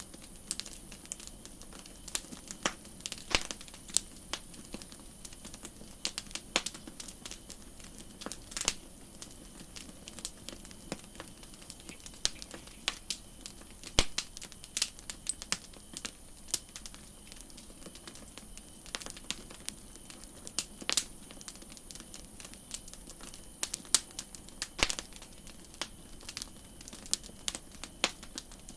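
Wood campfire crackling: irregular sharp pops and snaps, several a second at times, over a steady hiss.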